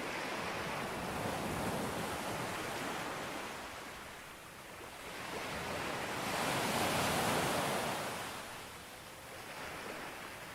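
Sea waves breaking and washing up a beach: a steady surf hiss that eases, then swells to its loudest a little past the middle and falls back again.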